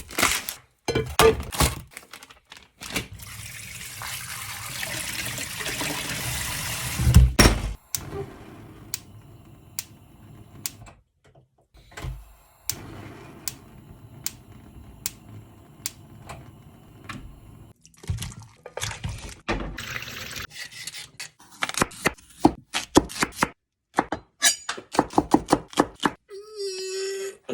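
Kitchen food-prep sounds in quick succession: water running from a tap for about four seconds starting about three seconds in, then scattered knocks, clinks and clatter of utensils and dishes, with a run of quick strikes near the end.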